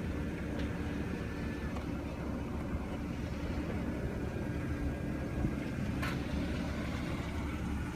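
Steady low background rumble with no distinct events, and a faint click about six seconds in.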